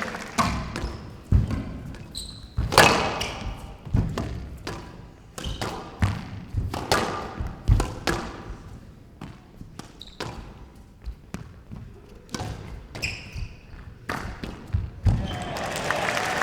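Squash rally: the ball being struck by rackets and smacking off the court walls in sharp, irregular hits, some in quick succession. Applause breaks out near the end as the rally finishes.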